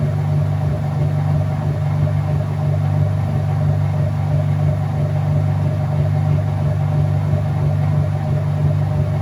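Whirlpool top-load washing machine running mid-cycle, its motor making a steady low hum.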